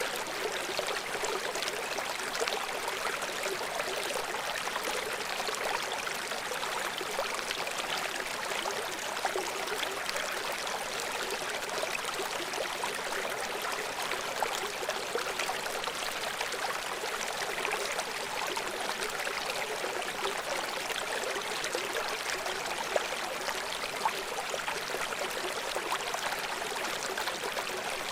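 River water running steadily over rocks, a constant rushing and splashing with no change in level.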